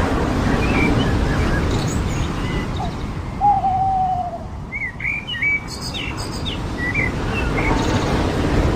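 Surf washing steadily on a beach, swelling and easing, with birds calling over it: one long falling whistled note about three and a half seconds in, then a cluster of short high chirps a little later.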